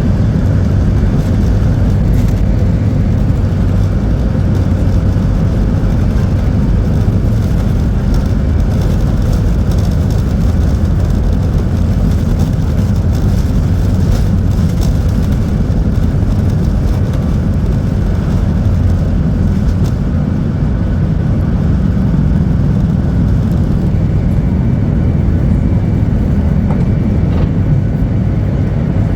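Cabin noise inside a Boeing 737-8200 during departure: the steady, loud low rumble of its CFM LEAP-1B jet engines and the airflow, holding level without breaks.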